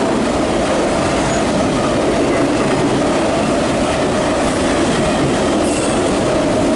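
Empty autorack cars of a CSX freight train rolling past at speed: a steady, loud noise of steel wheels on rail that does not let up.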